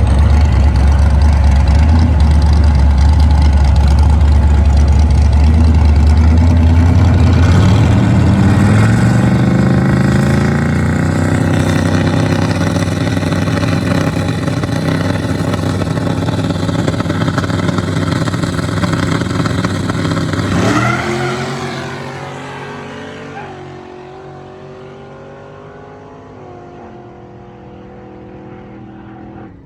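A turbocharged pickup truck and a small-block Chevy V8 coupe racing. The engines run loud and low at first, then climb in pitch through the gears. After a last sharp rise about two-thirds of the way in, they drop off and fade away.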